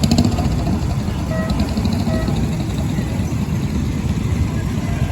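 An engine running steadily with a low, fast-pulsing rumble, and a brief rattle at the very start.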